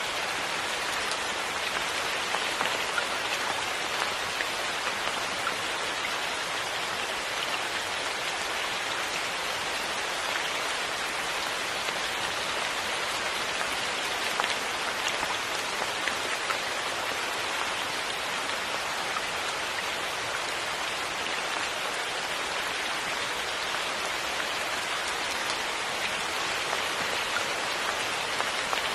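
Steady rain falling, an even hiss with scattered louder individual drops ticking.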